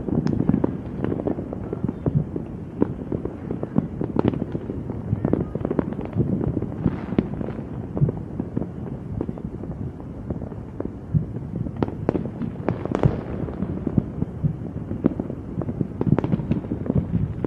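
Fireworks going off in a dense barrage: a steady stream of sharp bangs and crackles, many a second, with a few louder reports about twelve and sixteen seconds in.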